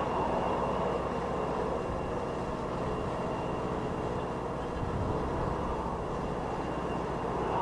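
Jet aircraft engines running with a steady rushing sound and a faint high whine, while strong wind buffets the microphone with a low, uneven rumble.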